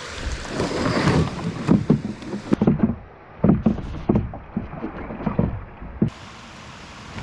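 A canoe in use on the water: irregular paddle strokes and splashes with knocks against the hull. About six seconds in these give way to a steady, even rush.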